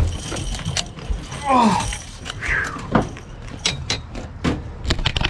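Scattered knocks and clatters on a pontoon boat as a big flathead catfish is lifted and handled aboard, with a short wordless exclamation about one and a half seconds in.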